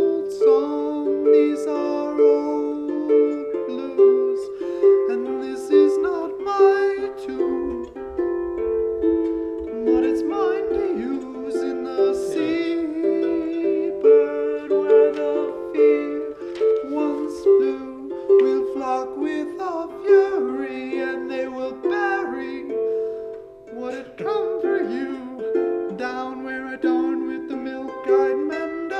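Plucked string instrument playing an instrumental passage of a song, a steady flow of picked notes ringing in a small room.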